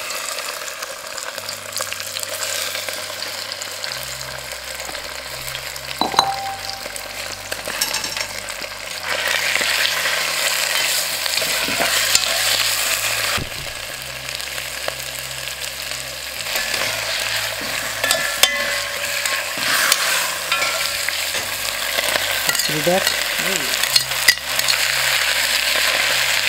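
Impala liver and kidney slices sizzling as they brown in a cast-iron pot, the frying getting louder about nine seconds in. A utensil stirring through the pot adds a few sharp clicks against the iron.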